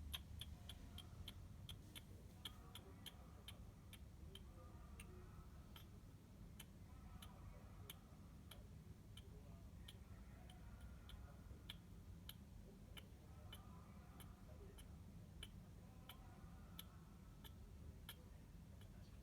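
Faint, irregular sharp clicks, several a second at first and sparser later, over a low steady hum.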